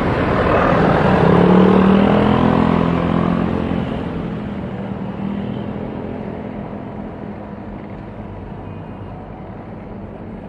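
Jet airliner passing close by. Its engine roar is loudest about a second and a half in, with a falling pitch as it goes past, then fades steadily away.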